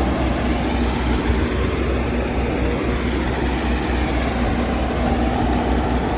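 A car driving: steady low engine and road rumble.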